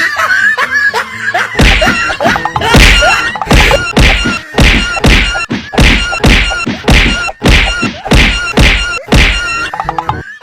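A fast run of loud thuds and whacks, about two a second, starting a second or two in and stopping just before the end.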